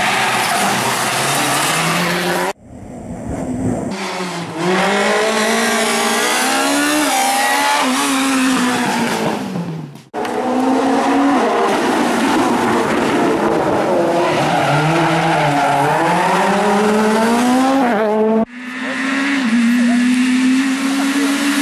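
Rally cars at speed on a special stage, engines revving up and falling back through the gears as they pass. The sound cuts off suddenly and switches to another car three times, about 2.5, 10 and 18.5 seconds in.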